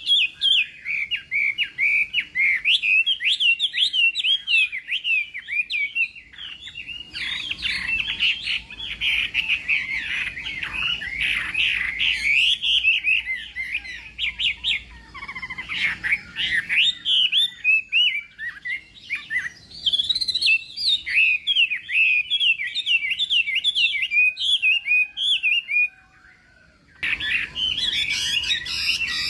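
Chinese hwamei (laughingthrush) singing a fast, continuous, richly varied warbling song, breaking off for about a second near the end.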